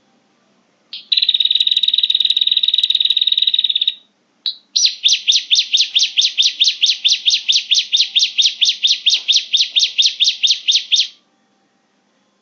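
Recorded prenjak (prinia) calls played as a bird-trapping lure: a short note, then a buzzy trill lasting about three seconds, and after a brief pause a fast run of repeated notes, about five a second, for some six seconds.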